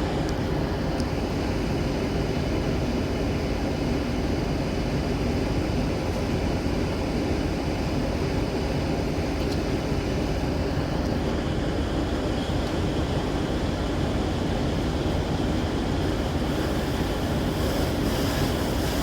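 Steady low rumble of a heavy vehicle's engine idling, even and unchanging.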